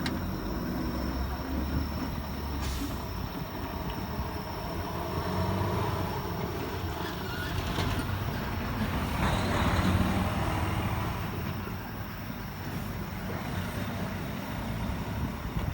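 Keikyu 1000-series electric train running on the line: a steady rumble that swells slightly about ten seconds in, with a faint high steady tone above it.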